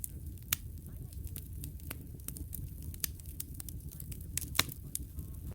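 Wood fire crackling in a fireplace: irregular sharp pops and snaps over a steady low rumble of the flames. The loudest pops come about half a second in and again near the end.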